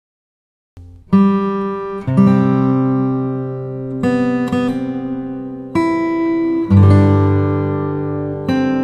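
Background music: guitar chords, each struck once and left to ring out, starting about a second in after silence, with six strikes in all.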